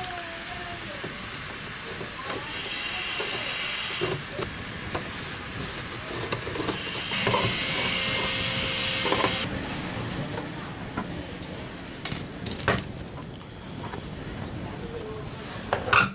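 Steady background hiss that grows louder for two stretches of a few seconds, with scattered sharp clicks and knocks from the casing of a truck's digital instrument meter being taken apart.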